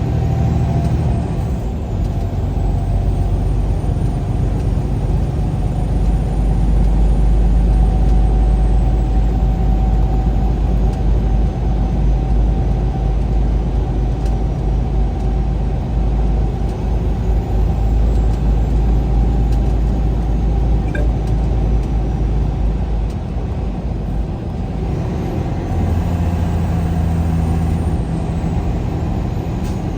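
A road vehicle's engine and tyre noise while driving on the highway. It is a steady low drone whose engine note shifts a few times as the speed or gear changes.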